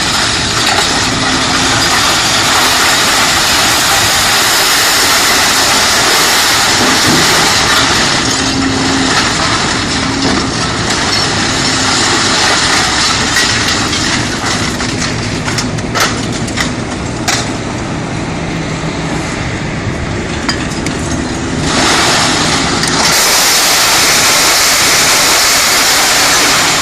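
Liebherr R974C Litronic high-rise material handler working scrap: its eight-cylinder diesel engine running steadily under a loud, dense clatter and rush of scrap metal, with a few sharp knocks about two-thirds of the way through. The noise eases briefly about 22 seconds in, then comes back just as loud.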